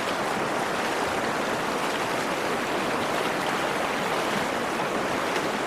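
The Virgin River flowing over rocks in a slot canyon, a steady rush of running water.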